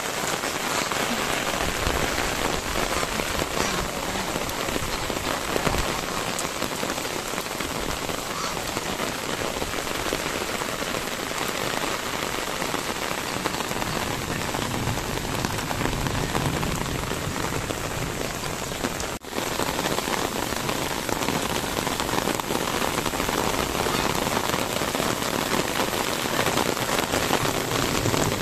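Steady rain falling on wet grass, soil and paving, an even hiss and patter that breaks off for an instant about two-thirds of the way through.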